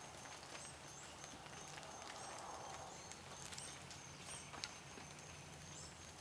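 Quiet, soft sounds of biscuit dough being pressed and stretched by hand. Behind them run a low steady hum and short high chirps that recur roughly once a second.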